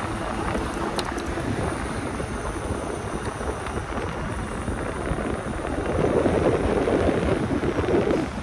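Wind rushing over the microphone and road rumble while riding a fat-tire electric bike. It swells louder about six seconds in and drops back near the end.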